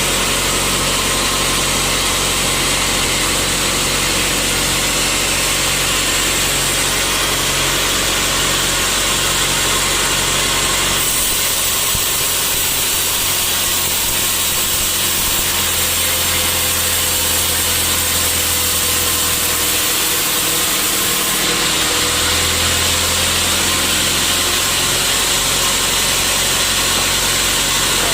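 Sawmill saw running steadily with its motor humming. About eleven seconds in the sound changes to a thinner, hissier tone for about ten seconds, then returns to the earlier running sound.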